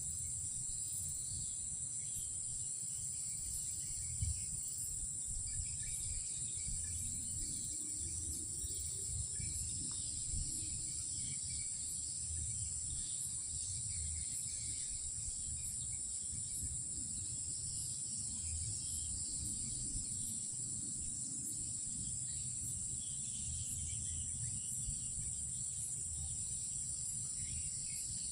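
Night-time chorus of insects such as crickets, a steady high-pitched shrill that never lets up, with softer chirring beneath it and a low, uneven rumble underneath.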